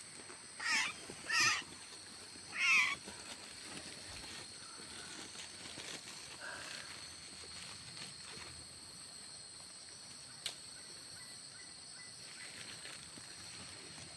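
Asian fairy-bluebird calling: three loud, short calls with falling pitch in the first three seconds, then only faint calls. A steady high whine runs underneath, and there is one sharp click about two-thirds of the way through.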